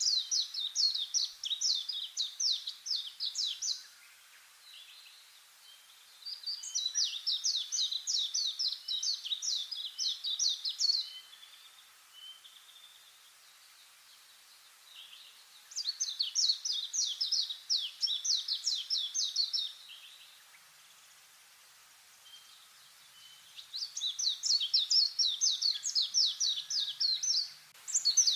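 A songbird singing the same song over and over: a quick run of high, downslurred notes lasting about four seconds, four times, with gaps of a few seconds between. Faint chirps fill the gaps.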